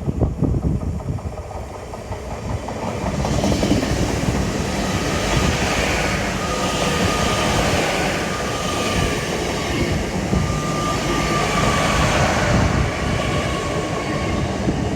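A passenger train passing slowly close by, its wheels and running gear rumbling on the track. It builds up about three seconds in and then stays steady, with a faint high squeal at times.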